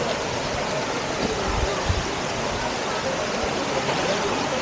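Steady rush of a waterfall and stream, an even hiss of falling and flowing water, with a few low thuds around the middle.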